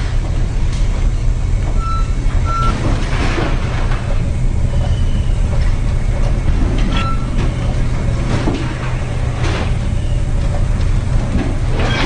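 Ship's engine running with a steady, loud low drone, with several short bursts of noise over it and a few brief high tones.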